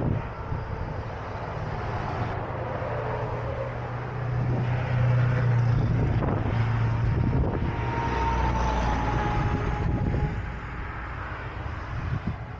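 Heavy truck engines running at a road paving site: a steady low drone that grows louder in the middle, with a faint falling whine partway through.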